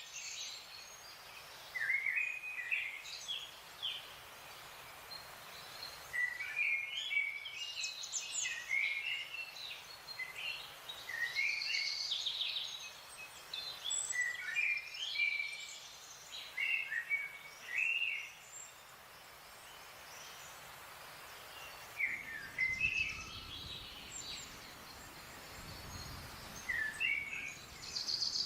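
Wild songbirds chirping and whistling in quick, varied phrases with short pauses, over a steady background hiss. A faint low rumble comes in during the last few seconds.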